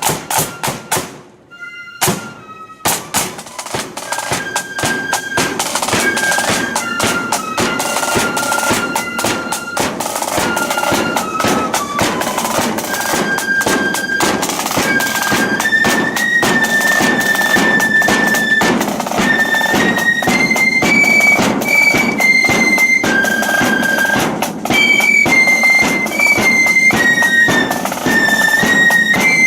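Blood-and-thunder marching flute band: drum strokes, a brief break about a second in, then the flutes take up a tune over the drums and grow louder.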